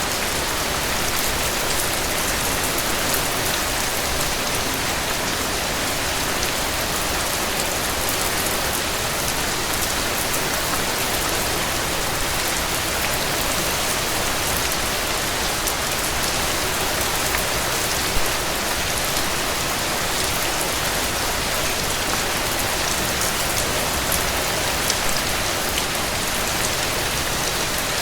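Heavy rain falling steadily on a cabin porch, a dense even hiss with scattered sharp crackles, one louder pop about eighteen seconds in.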